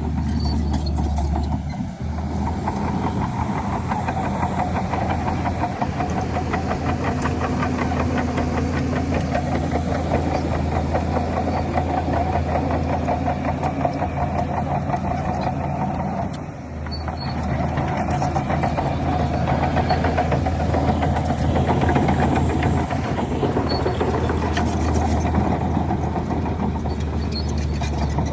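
Bulldozer's heavy diesel engine running steadily under load. It dips briefly twice, about 2 seconds in and again about 16 seconds in.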